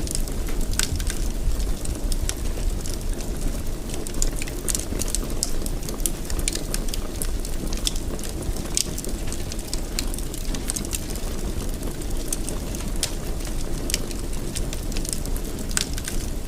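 Wood fire burning in a fireplace: a steady low rumble of flames with many sharp crackles and pops at irregular intervals.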